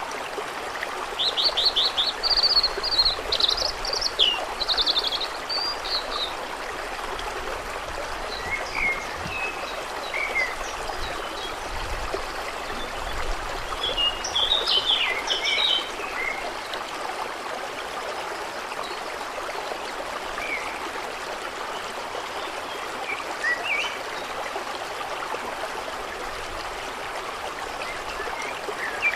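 Steady rush of water with birds singing over it: bursts of rapid, high song from about one to six seconds in and again around fourteen seconds, with scattered single chirps in between.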